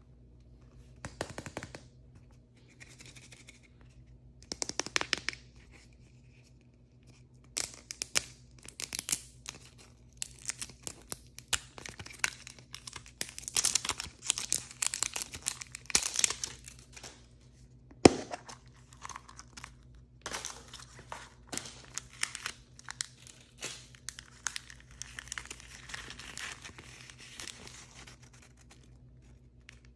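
Blind-bag toy packaging being torn open and crinkled by hand, in irregular rustling bursts that thicken after the first few seconds, with one sharp click about midway.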